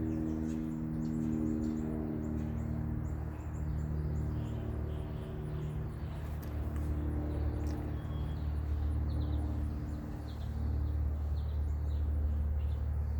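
Small songbirds chirping and tweeting in short, scattered calls over a steady low hum.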